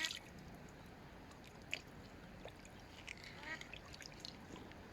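Faint bird calls, a short run of them about three seconds in, with a sharp click near the two-second mark.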